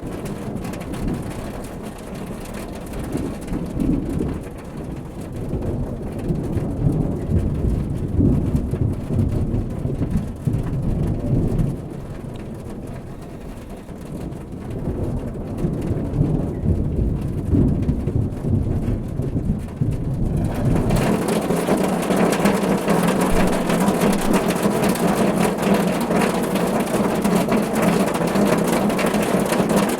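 Low rolling thunder rumbles and swells under light rain. About two-thirds of the way in it gives way abruptly to a steady, dense patter of rain drumming on a car roof.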